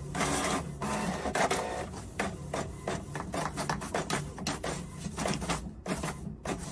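A small machine running with a steady low hum and rapid, irregular clicking.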